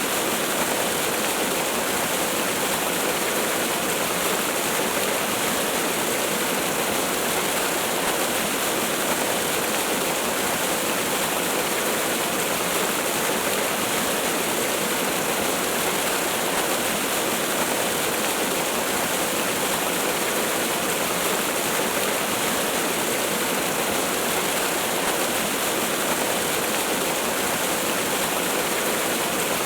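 Waterfall: a steady, unbroken rush of falling water, an even hiss with no breaks or separate splashes.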